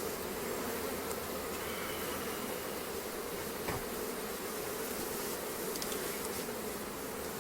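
A strong honeybee colony buzzing as a steady, even hum from the opened hive, with one faint tap about halfway through.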